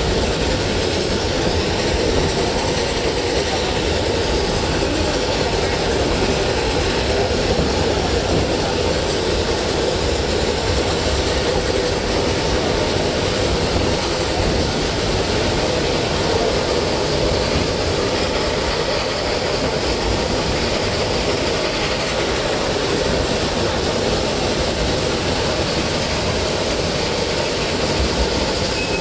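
Narrow-gauge steam train running behind a geared Shay locomotive, heard from aboard: a steady rumble and hiss with no distinct beats.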